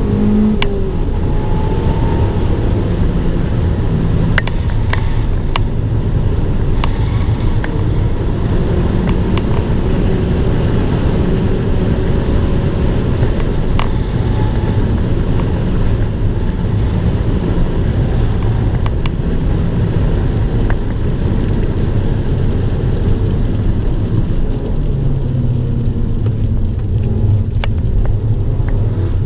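Abarth 595 Turismo's 1.4-litre turbocharged four-cylinder engine running hard on track, heard from inside the car, its note rising and falling with throttle and gear changes over steady road and wind noise, with a few sharp clicks.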